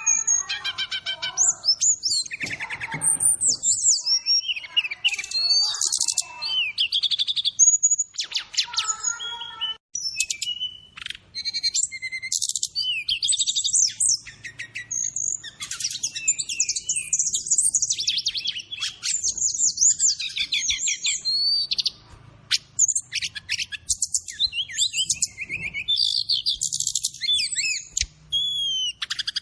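Brown-chested jungle flycatcher (sikatan rimba dada coklat) song with filler calls mixed in: a continuous, varied run of rapid chirps, trills and whistled sweeping phrases, with only brief pauses between them.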